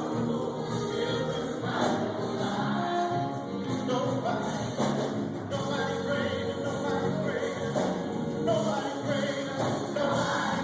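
A choir singing a gospel song without a break.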